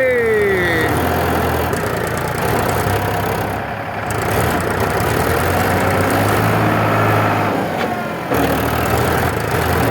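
Tractor diesel engine running steadily at low revs. A falling tone sounds right at the start, and the engine sound dips and then jumps back abruptly about eight seconds in.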